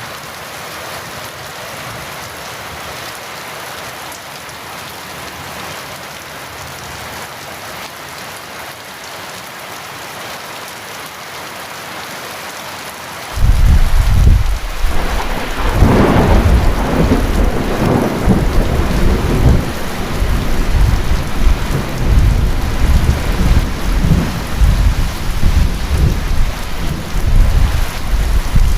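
Heavy rain falling steadily. About halfway through, thunder breaks in suddenly and loudly, with a sharper crack a couple of seconds later, and goes on rumbling over the rain to the end.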